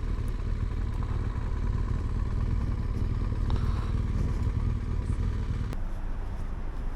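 Motorcycle on the move, its engine under a heavy rumble of wind on the microphone. About six seconds in, the low rumble suddenly drops away.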